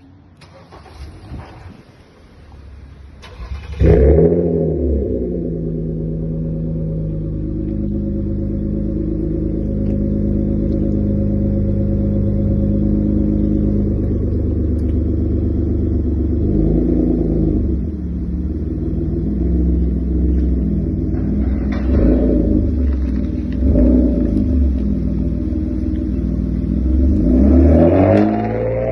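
Nissan Teana J32's exhaust: the engine starts with a flare about four seconds in, then idles steadily. It is given several short revs in the second half, each rising and falling back to idle.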